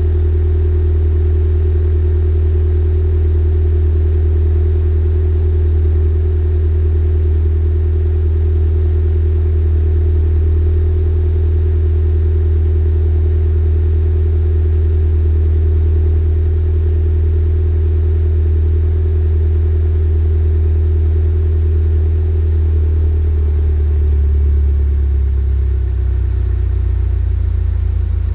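2011 Volkswagen GTI's 2.0-litre turbocharged four-cylinder idling steadily through an SPM custom turbo-back exhaust (track downpipe, j-pipe, mid and rear pipes), a deep steady drone, the engine still cold after a cold start. About 23 seconds in, the idle note drops a little lower.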